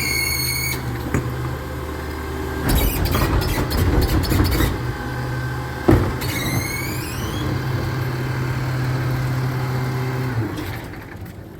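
Recycling truck engine running steadily, with a high squeal that falls in pitch and settles at the very start and another squeal about six seconds in. A loud noisy burst comes about three seconds in and lasts a couple of seconds, and the engine sound drops away near the end.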